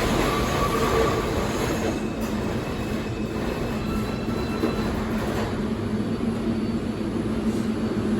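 New York City subway train running on the rails, its wheels squealing briefly in the first second over a steady rumble and low hum.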